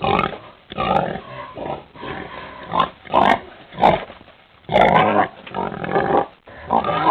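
Pig grunting and oinking, a string of separate calls about one every half second to second.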